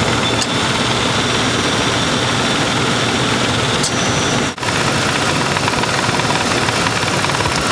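1995 Lincoln Town Car's 4.6-litre V8 idling steadily with the A/C compressor engaged while the system takes on R-134a refrigerant. The sound drops out for an instant about four and a half seconds in.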